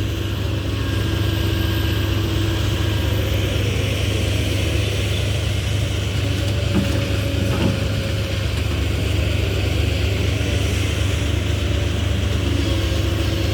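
Dump truck's diesel engine running steadily with a deep, loud, fierce-sounding rumble through its dented exhaust pipe.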